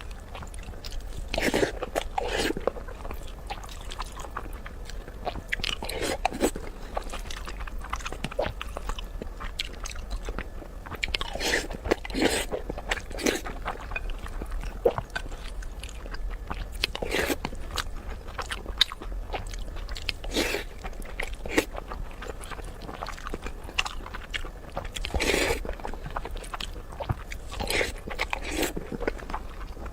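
Close-miked eating: irregular bites, chewing and crunchy, smacking mouth sounds.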